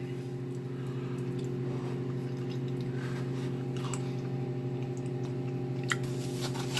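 Microwave oven running with a steady electrical hum, with a few faint clicks of packaging being handled.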